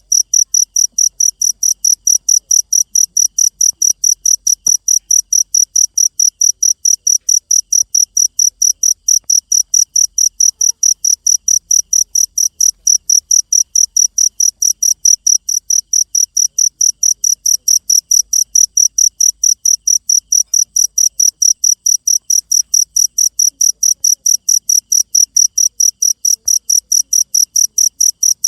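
Cricket chirping steadily: loud, high, evenly spaced chirps, a few each second, without a break.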